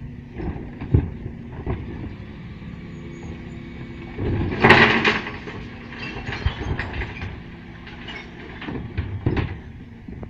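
Dennis Duo bin lorry's engine running steadily with clanks and knocks from the Terberg bin lifter. About four seconds in there is a louder rattling rush lasting about a second, as a bin is emptied into the hopper.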